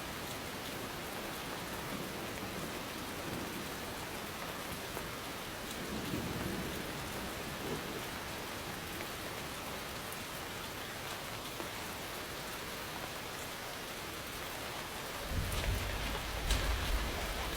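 Steady rain falling, with a soft rumble of distant thunder about six seconds in and a deeper, louder rumble building near the end.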